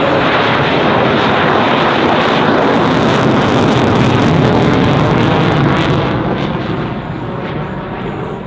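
F-16 Fighting Falcon jet flying past, loud, swelling to a peak about halfway through and fading after about six seconds.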